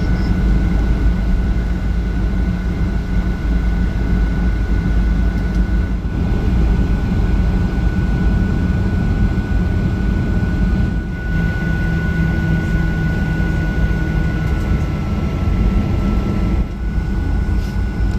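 Steady cabin noise inside a Boeing 737-800 with its CFM56 jet engines running: a deep rumble under a steady high whine that wavers slightly in pitch.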